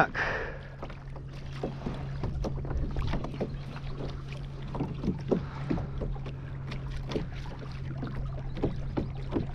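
Minn Kota electric trolling motor on a kayak running forward at a steady low hum, with short irregular splashes and knocks of water against the hull.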